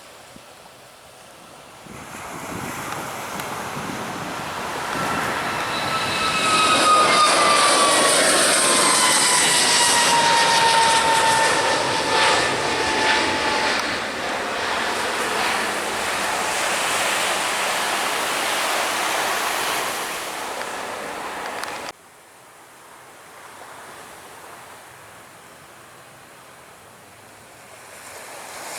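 Jet airliner's engines passing close by, building up to a loud rushing roar with a high engine whine that falls in pitch as it goes past. The sound cuts off abruptly about three-quarters of the way through, leaving only faint surf.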